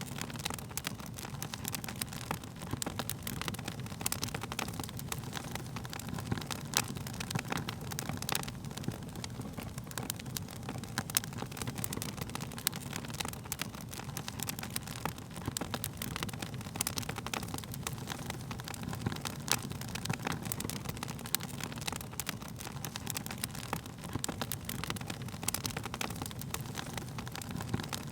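Wood fire crackling: frequent sharp pops and snaps scattered irregularly over a steady low rumble.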